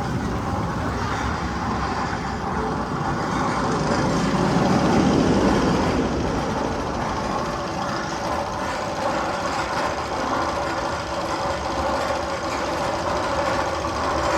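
One of the Magnum XL 200 tunnel's sound effects played over loudspeakers: a steady engine-like noise that swells a little around five seconds in.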